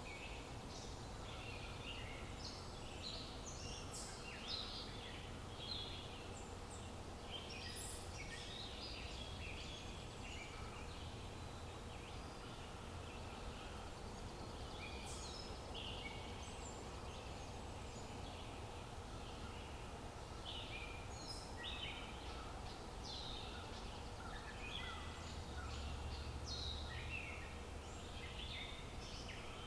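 Birds chirping and singing, many short overlapping calls throughout, over a steady low rumble of background noise.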